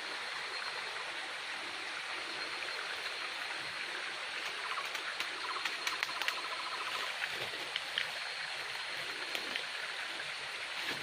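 Steady rushing of flowing water, like a forest stream. About halfway through, a brief run of rapid buzzy pulses and a few sharp clicks sound over it.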